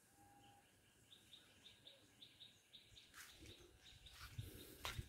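Faint bird chirping: a run of short, evenly spaced chirps, about three a second, over quiet outdoor background. A few soft rustles and knocks follow in the second half, with one sharp click just before the end.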